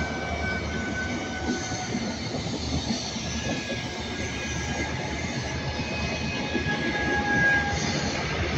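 GWR Castle HST's Mark 3 coaches rolling past on the rails behind the departing Class 43 power car: a steady rumble with a few faint, thin, high-pitched squeals from the wheels.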